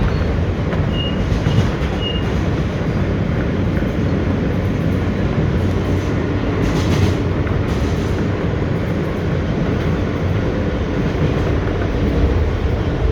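R160B Siemens subway train running along the track: a steady rumble of wheels and running gear with occasional clicks.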